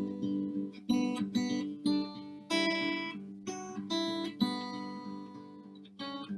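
Acoustic guitar music: strummed chords, each struck and left to ring down before the next.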